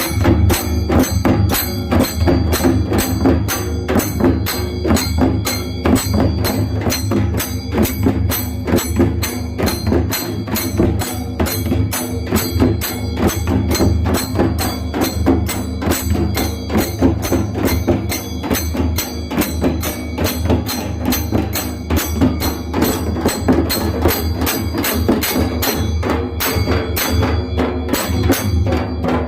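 Loud, fast percussion music: drums struck several times a second in a driving, unbroken rhythm.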